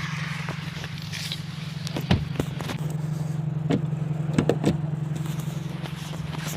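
Motor vehicle engine running with a steady low drone, heard from close by, with several sharp clicks and knocks over it, about two seconds in and again near the middle.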